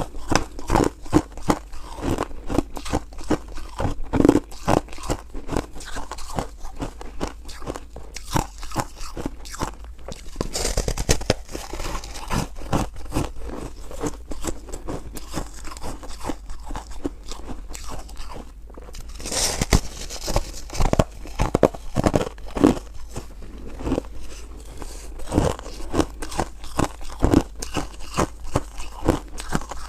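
Close-miked biting and chewing of frozen ice: dense, irregular crisp crunches that go on and on, with a brief pause about two-thirds of the way through.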